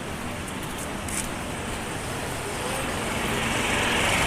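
Road traffic noise, growing louder in the last second or two as a vehicle draws near.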